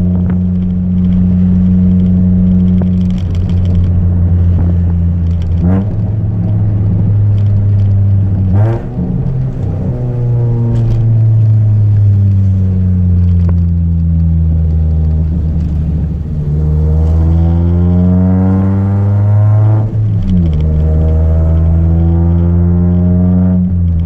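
Chevrolet Celta 1.0 four-cylinder engine through a 4-into-1 header and an open two-inch exhaust without mufflers, running loud. Its note holds steady, shifts a few times, slowly falls and climbs again, then drops suddenly about twenty seconds in.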